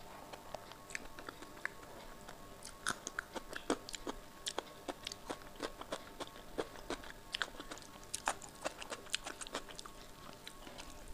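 Close-up chewing and wet mouth sounds of someone eating kadhi-soaked rice by hand: a dense run of short smacks and clicks, busiest in the middle of the stretch.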